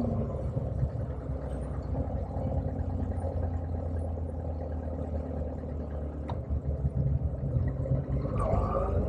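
Motorcycle engine running at a steady low speed, a low even hum, with its pitch starting to rise near the end as the throttle opens.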